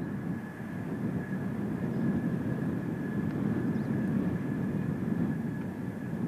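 Steady high whine of a jet aircraft's turbine engine over a rumble of wind on the microphone.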